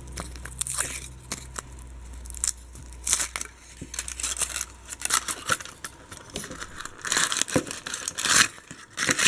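Foil wrapper of a Kinder Surprise egg crinkling and tearing as it is peeled off the chocolate egg, in irregular bursts.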